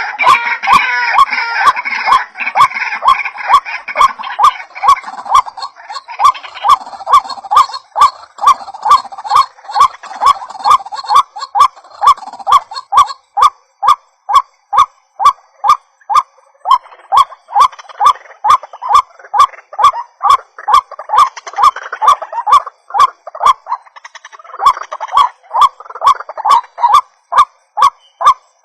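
White-breasted waterhens (ruak-ruak) calling: a long run of harsh notes repeated about two to three times a second, with brief breaks. Several birds overlap in the first few seconds.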